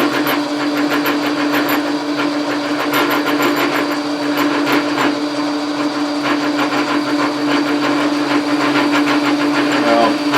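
Logan metal lathe running under power: a steady hum with a fast, even ticking rattle over it.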